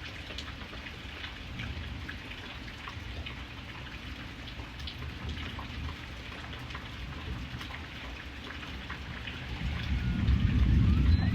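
Steady rain falling, with individual drops clicking on a surface. About nine seconds in, a low rumble of thunder builds and gets louder.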